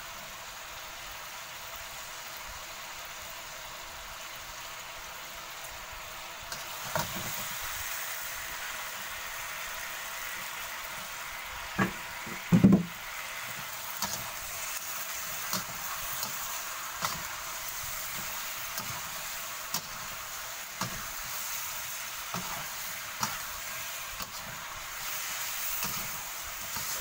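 Pork belly cubes sizzling in a wok in a soy-sauce glaze, the sizzle growing louder about six seconds in. A metal spatula knocks and scrapes against the wok as the meat is turned, loudest in a clatter about halfway through, then every second or two.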